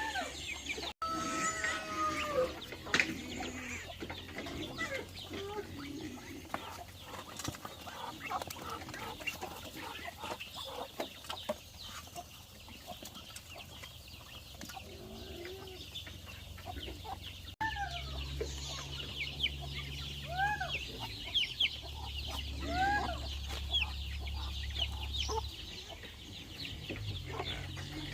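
Chickens clucking, with repeated short arched calls and scattered small clicks. A low steady hum comes in around two-thirds of the way through and stops shortly before the end.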